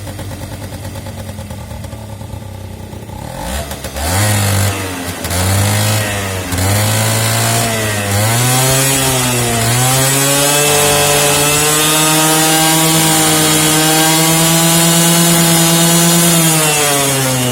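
Honda Giorno 49cc moped engine being test-run with its body panels off: it idles, then from about three and a half seconds in is blipped several times, the pitch rising and falling, and from about ten seconds in is held at high revs before dropping back near the end.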